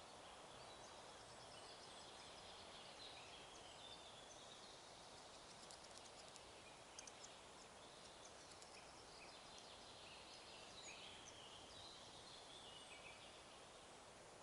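Faint forest ambience: small birds singing at a distance, in short trills that step down in pitch, over a steady hiss.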